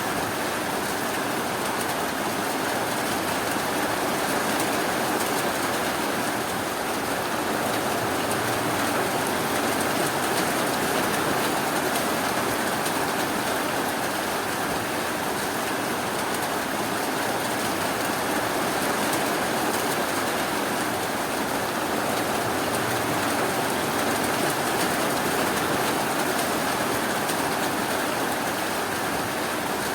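Steady rainfall: an even, unbroken hiss of rain with fine pattering and no thunder.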